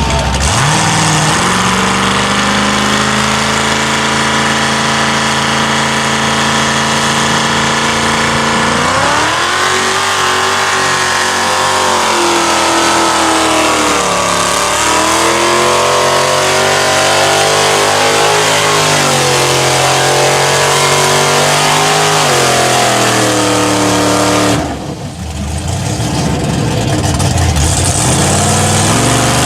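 Mud truck engine running hard under throttle: it holds a steady high pitch for several seconds, then revs up and down repeatedly, drops off briefly near the end and revs up again.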